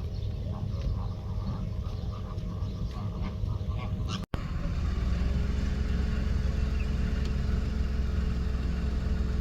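Ducks calling in short repeated quacks over a low rumble. About four seconds in, the sound cuts out for an instant and a steady low engine hum takes over, like a car idling.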